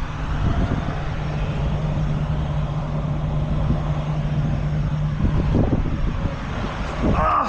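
Heavy truck engine running, with a steady low hum that stops about five seconds in.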